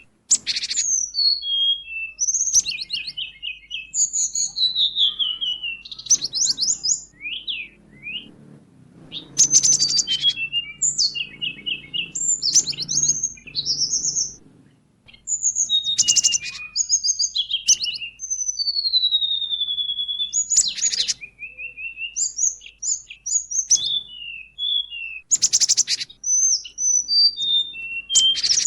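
A medley of small songbirds singing, compiled for masteran: sharp, high-pitched chirps, quick trills and down-slurred whistles in rapid changing phrases. Harsh, raspy chattering notes break in every few seconds.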